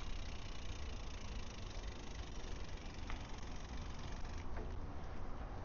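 Steady wind rush and rumble on the microphone of a moving bicycle; the hiss eases a little near the end, with a few light ticks.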